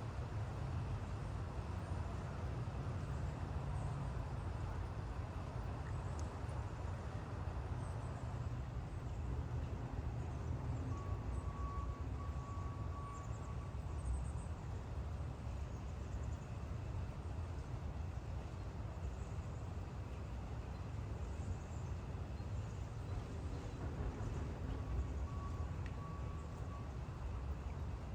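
Steady rain falling, with a low steady rumble underneath. A faint steady tone comes in briefly twice, about a third of the way in and again near the end.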